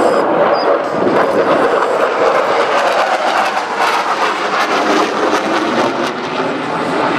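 Loud, steady jet noise from a Dassault Rafale fighter's twin Snecma M88 turbofans during its low-level display, easing slightly near the end.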